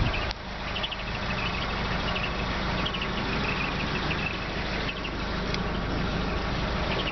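1997 Honda Accord's four-cylinder, 16-valve engine idling steadily, a low even rumble. A single click sounds just after the start, and short high chirps repeat over the idle.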